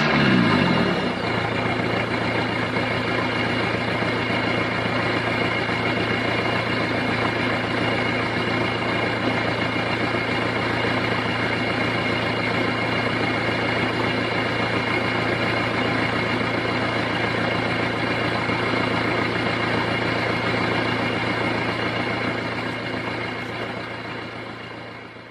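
Isuzu 4JG2 3.1-litre four-cylinder diesel with a free-flowing open exhaust, its revs dropping back to idle within the first second, then idling steadily. The sound fades out near the end.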